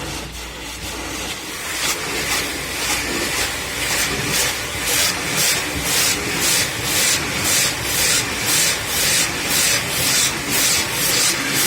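Hand car washing: a rhythmic hissing swish, about two strokes a second, that starts and grows louder about two seconds in.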